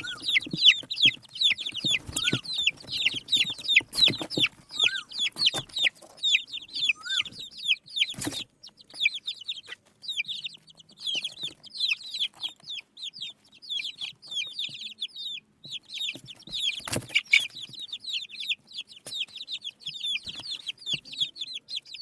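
A group of desi chicks cheeping continuously, many short high chirps overlapping. A few sharp knocks, the loudest about eight and seventeen seconds in, sound over the cheeping.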